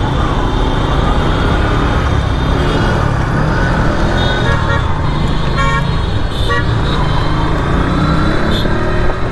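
Motorcycle riding in dense city traffic: steady engine and road noise, with several short vehicle-horn toots around the middle. The engine pitch climbs near the end as it speeds up.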